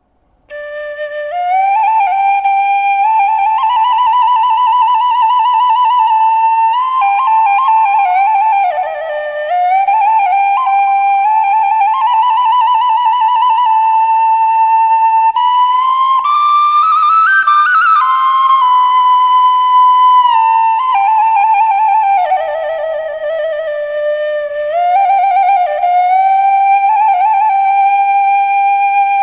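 Background music: a solo flute playing a slow melody of long held notes with vibrato.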